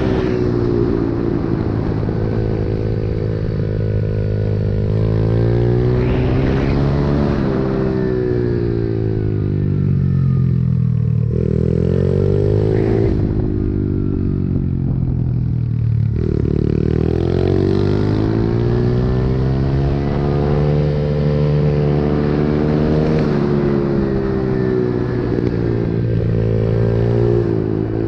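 Pit bike engine being ridden hard, its pitch climbing and dropping again and again as the rider accelerates, shifts and backs off, with sharp drops at about 11, 13 and 16 seconds in.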